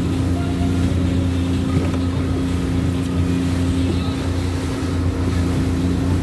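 A boat's engine running steadily at sea with a constant low drone, with wind on the microphone.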